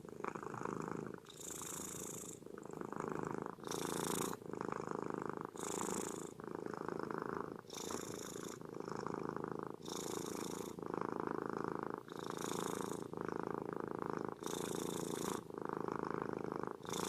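A cat purring steadily, each in-and-out breath heard as an even pulse about once a second.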